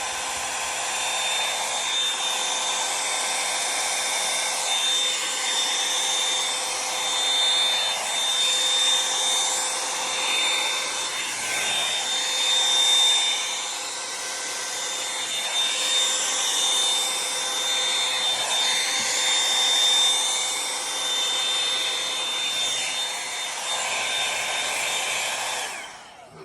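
Revlon One-Step hot air brush dryer running steadily: a blowing rush of air with a thin motor whine, its level wavering a little, switched off near the end.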